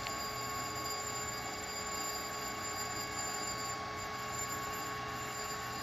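Diesel locomotive's pre-start warning alarm ringing steadily over the hum of its priming pumps, signalling that the engine is about to be started.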